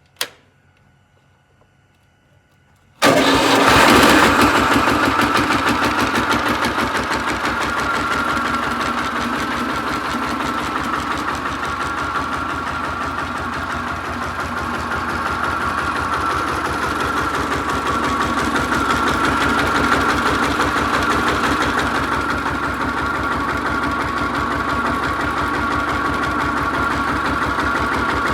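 Goldoni 233 4×4 mini tractor engine starting abruptly about three seconds in, after a single short click, then running steadily with an even firing beat.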